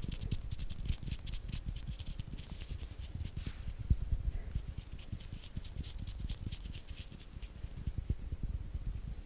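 ASMR hand sounds made close to a sensitive microphone: hands rubbing, fluttering and patting in a quick, irregular run of soft low thuds with dry crackles, one thud stronger about four seconds in.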